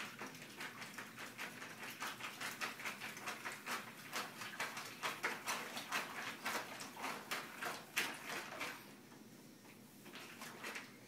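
Rapid, irregular rattling and knocking of a toothpick model building and its base as they are shaken by hand to simulate an earthquake. The sharpest knock comes about eight seconds in, as the building flops over, and the rattling stops soon after.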